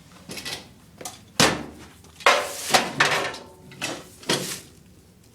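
A few knocks and clattering handling noises: one sharp knock, then a louder rattling clatter and a last short knock, with no motor running.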